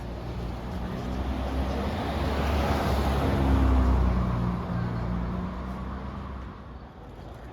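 A motor vehicle driving past: engine hum and road noise swell to their loudest about four seconds in, then fade away.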